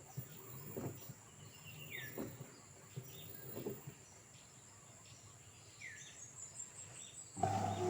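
Faint outdoor ambience with a few short bird chirps and soft thumps. Near the end a louder steady mechanical hum starts abruptly.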